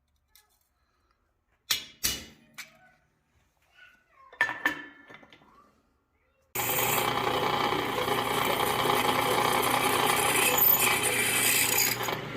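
A few knocks and metal clinks, then about halfway in an electric power tool starts and runs steadily and loudly on metal in the shop.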